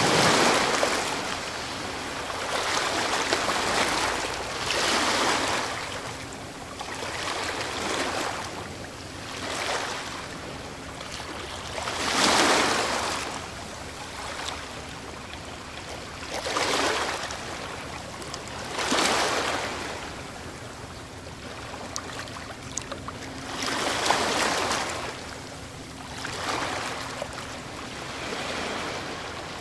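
Ocean waves breaking and washing up a shore, one surge after another every few seconds, the biggest about 12 and 24 seconds in.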